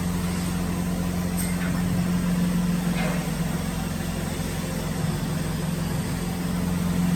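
Woodworking machine loaded with 84 wooden legs running, a steady even motor hum.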